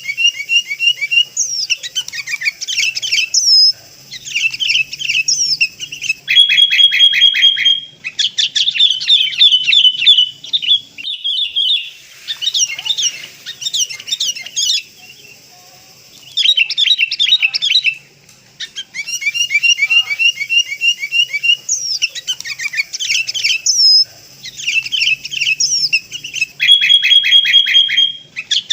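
Sooty-headed bulbuls calling in quick, repeated chattering phrases with short breaks between bouts. This is a lure recording of the kind used to draw wild bulbuls in.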